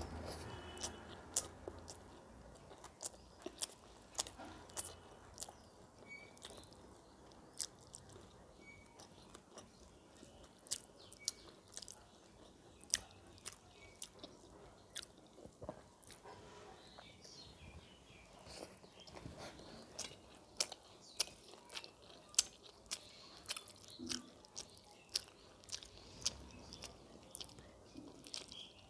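A person chewing and crunching food, with sharp, irregular mouth clicks about once or twice a second.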